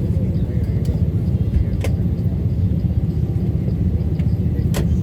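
Steady low rumble inside a passenger jet's cabin, with a couple of sharp clicks, one about two seconds in and one near the end.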